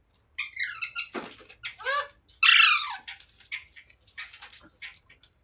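Ringneck parrot calling and chattering: a few short pitched squawks, the loudest a falling call about two and a half seconds in, then softer chirps and clicks.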